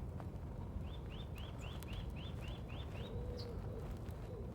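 A small songbird calling a quick series of about eight short, high, evenly repeated notes, about four a second, over a steady low outdoor rumble, with a faint low note near the end.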